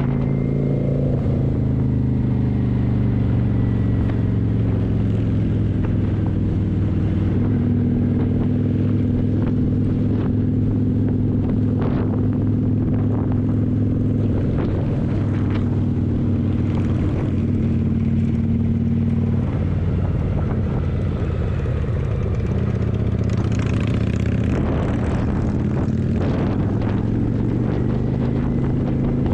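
Kawasaki motorcycle engine running at a steady cruise, its note holding steady with small changes in pitch.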